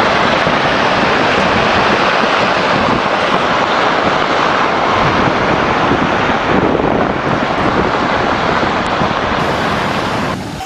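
Loud, steady rushing noise of surging water that cuts off abruptly near the end.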